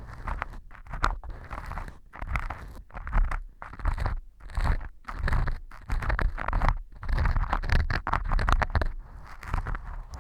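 Earpick scraping and crunching at pieces of dry baked wheat gluten (fu) glued in a model ear canal as fake earwax, in a run of short gritty strokes about two a second. The glue has set the fu hard, so the strokes grate.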